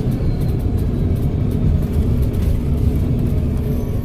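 Volvo B7RLE bus's 7-litre six-cylinder turbodiesel running steadily, a continuous low rumble with no clear change in engine speed.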